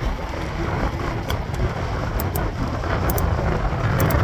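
Wind rumbling on the microphone of a moving bicycle, mixed with road traffic noise, getting louder toward the end.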